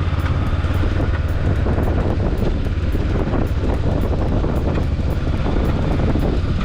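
Motorbike running at speed with wind buffeting the microphone: a loud steady low rumble with a fast flutter.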